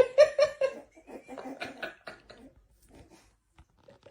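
A person laughing in a quick run of pulses, loudest in the first second, then trailing off into softer laughs by about two seconds in.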